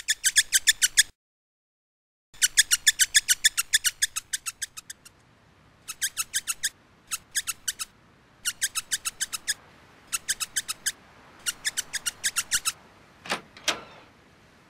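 Small bird chirping in quick trains of sharp, high chirps, about ten a second, in bursts with short pauses between them. The sound cuts out completely for about a second near the start, and two short, lower sounds come near the end.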